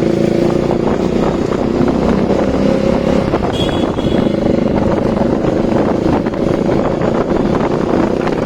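Bajaj Dominar 400's single-cylinder engine running steadily while riding, heard through its new aftermarket exhaust, under a rush of wind noise. A brief high beep sounds about three and a half seconds in.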